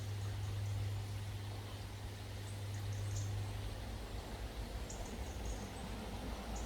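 Outdoor ambience: a steady low hum under a soft even hiss, with a few faint, short high chirps near the middle and again later.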